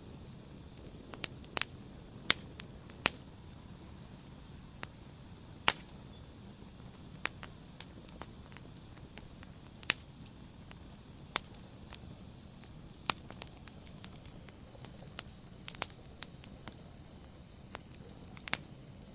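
Wood fire burning in a fireplace: sharp, irregular crackles and pops, about one every second or two, over a soft steady hiss.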